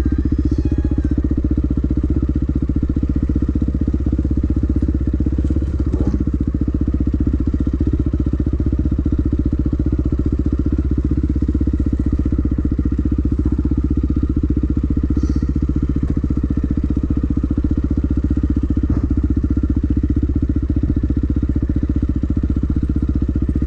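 Dirt bike engine running steadily at low revs, close to the microphone, with no big revs or pauses.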